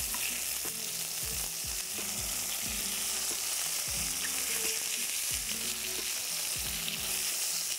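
Chicken breasts sizzling steadily as they fry in a pan, turned now and then with metal tongs.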